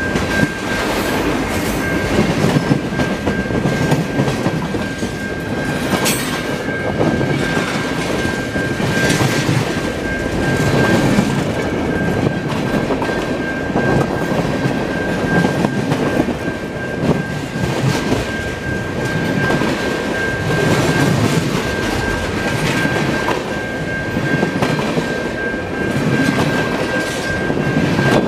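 Freight train tank cars and boxcars rolling past at close range, their steel wheels rumbling and clacking over the rail joints in a regular rhythm. A thin, steady high-pitched whine runs under it.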